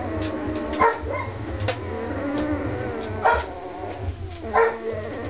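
Very young Weimaraner–English Setter mix puppies, about two and a half weeks old, whining and squealing with wavering pitch. There are three short, sharp yelps: about a second in, at about three seconds and near the end. A steady low hum runs underneath.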